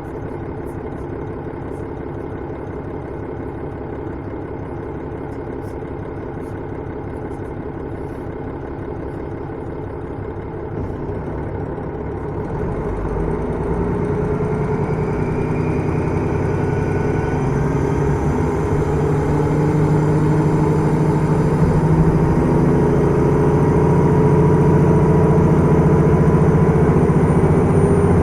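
Engine and running noise heard from inside a KiHa 110 series diesel railcar. A steady, lower note for the first dozen seconds or so, then the diesel engine opens up and the sound grows steadily louder and fuller as the railcar accelerates.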